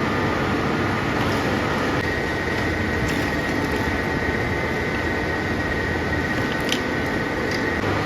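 Factory machinery running with a steady drone and a high whine, and a couple of faint clicks.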